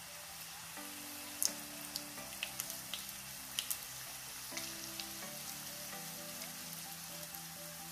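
Spring rolls frying in hot oil in a pan: a steady sizzle with scattered sharp pops and crackles, the loudest about a second and a half in and again past three and a half seconds.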